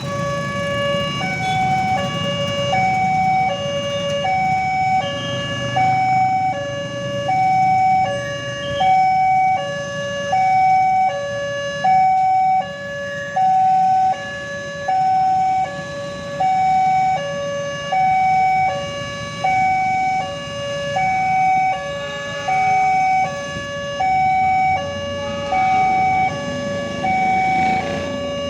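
Railway level-crossing warning alarm sounding: an electronic two-tone signal alternating steadily between a lower and a higher note, about one full cycle every second and a half, over a low rumble. It is the warning that a train is approaching and the crossing is closing.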